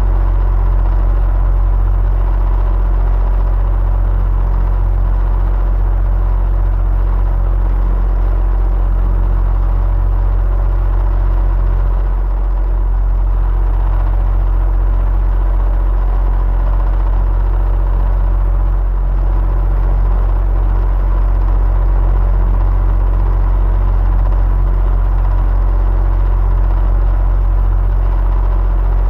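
Electric fan running steadily: a deep, even hum under a soft rush of air, with a faint steady whine.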